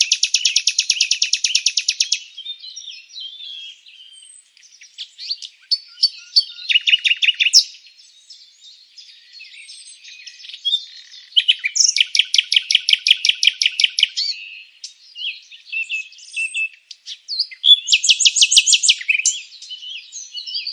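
Songbirds singing: a loud, fast trill of evenly repeated high notes comes back about every five or six seconds, four times in all, with softer, varied chirps in between.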